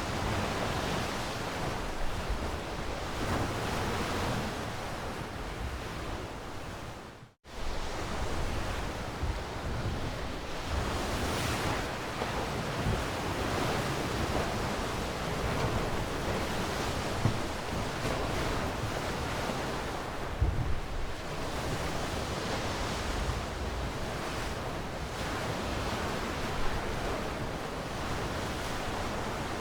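Ocean waves washing on the shore in a steady surf, swelling and easing gently. A brief dropout, like a splice in the recording, comes about seven seconds in.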